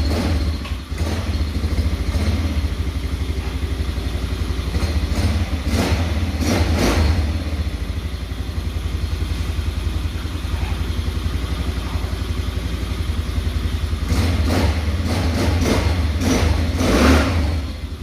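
Mini bike engine exhausting through its new muffler, running steadily with a low pulsing note, revved up briefly around five to seven seconds in and again near the end.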